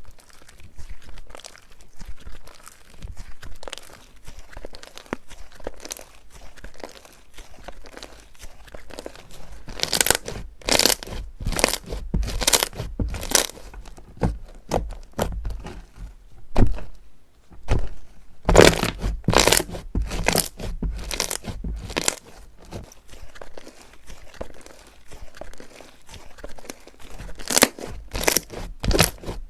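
Slime being squeezed, poked and pulled by hand: a continuous run of crackling, crunchy squishes, with louder bursts of sharp crunches about a third of the way in, around the middle and near the end.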